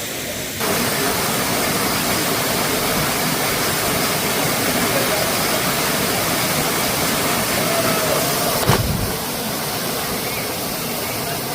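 Waterfall: a steady rush of falling water, louder from about half a second in, with a single sharp thump near the end.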